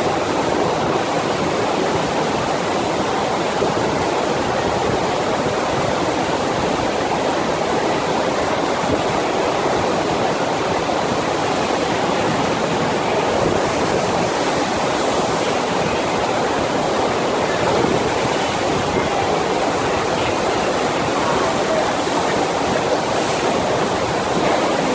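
Steady rush of water from a FlowRider sheet-wave machine, an even, unbroken torrent of water pumped up the ride's surface.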